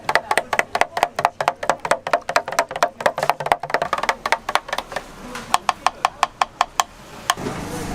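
Knife chopping fast on a cutting board, about five even strokes a second, thinning to a few spaced chops and stopping about seven seconds in.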